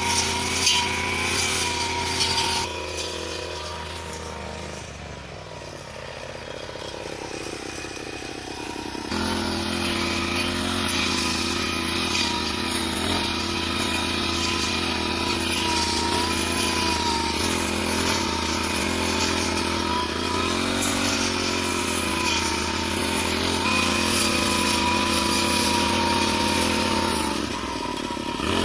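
Small petrol engine of a grass-cutting machine running; it drops to a lower, quieter speed about three seconds in, then comes back up to full running speed about nine seconds in and holds steady.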